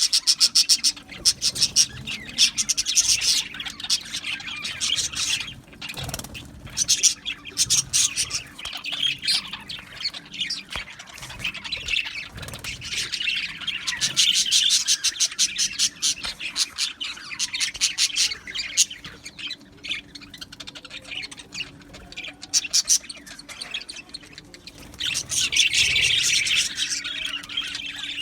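A flock of budgerigars chattering and chirping continuously, a dense mix of warbles, squawks and rapid clicking calls, with louder bursts now and then.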